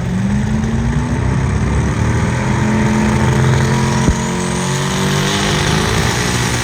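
Engine of a pulling truck or tractor running hard under load, its pitch climbing in the first second and then holding high, with one sharp knock about four seconds in.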